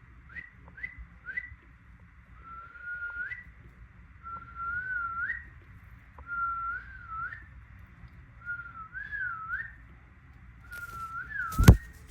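A whistled tune: three short rising notes, then five longer wavering phrases, each about a second long, rising at the end. A single sharp click near the end is the loudest sound.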